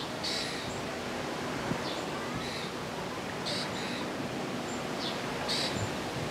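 Birds calling over a steady outdoor rush: short, high calls come about once a second, with a few fainter, thinner whistles higher still.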